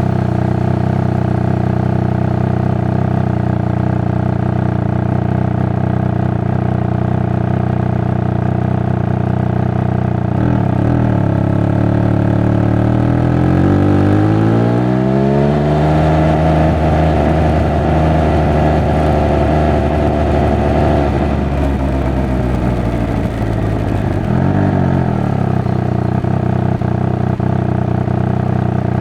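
Triumph Speed Triple 1200 RR's inline three-cylinder engine and exhaust, ridden at a steady pace. The revs climb about halfway through as it accelerates, hold higher for several seconds, then drop back near the end.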